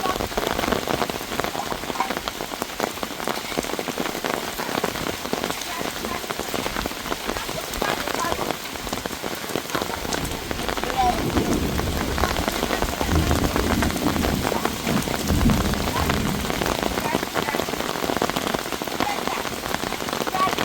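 Heavy rain falling steadily, a dense hiss of many drops striking surfaces. A low rumble joins in between about 11 and 16 seconds in.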